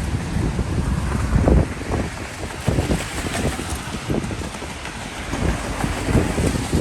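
Wind buffeting the microphone in uneven gusts, over a steady hiss of rain.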